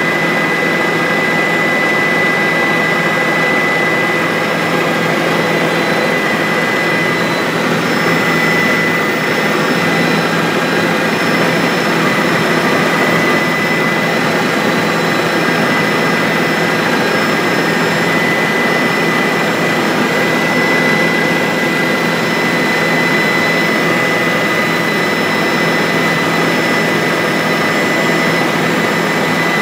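Bell 407 helicopter in flight, heard from the cabin: the steady turbine whine and rotor noise, with a high whistle running through it.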